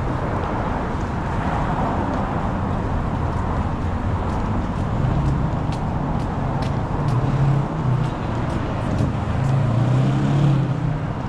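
City street traffic: steady road noise with a motor vehicle's engine humming low, stronger in the second half.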